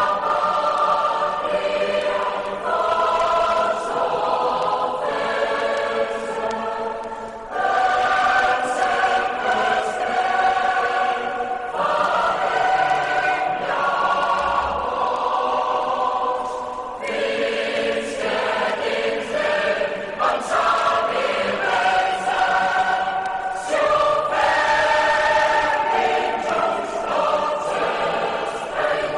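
A choir singing held chords that change every few seconds.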